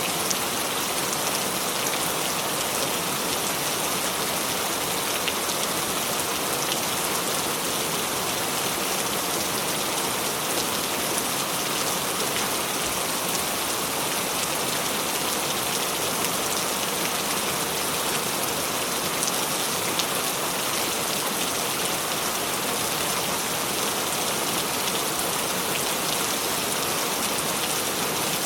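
Steady rain falling: an even hiss of many drops, with faint sharper drop ticks scattered through it.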